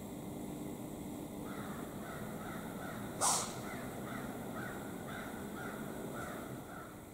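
A bird calling in the woods: short calls repeated about three times a second, with one loud, short, noisy call about three seconds in.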